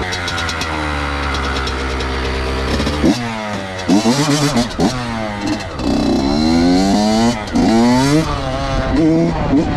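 Honda CR85 two-stroke dirt bike engine running steadily, then revved hard several times from about three seconds in, its pitch repeatedly rising sharply and dropping back as the bike is tested.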